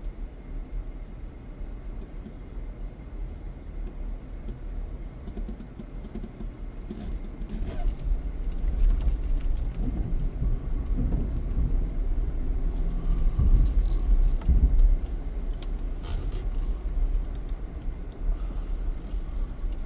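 Car driving slowly along a winding paved road: a steady low rumble of engine and tyres, growing louder about halfway through.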